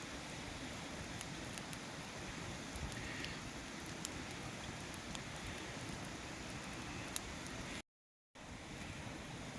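Wood fire crackling: a steady hiss with scattered sharp pops and snaps. The sound drops out completely for about half a second near the end.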